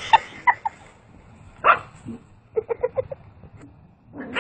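A dog making short high yips and whimpers, with a quick run of about six yips about halfway through.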